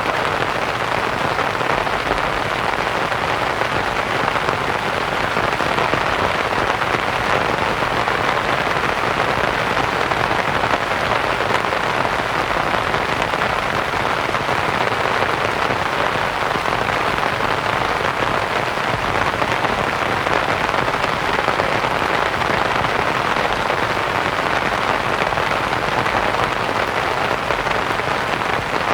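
Steady rain falling on a canvas tent, blended with white noise into an even, unbroken hiss.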